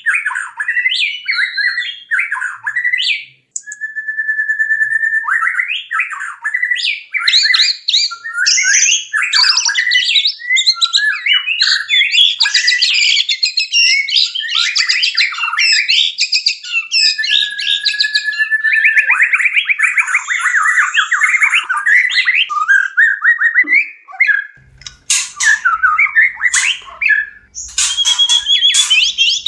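White-rumped shama (murai batu) singing its courtship song in breeding condition: a rapid, varied run of whistles, trills and chattering notes, with a few long held whistles. A faint low hum joins near the end.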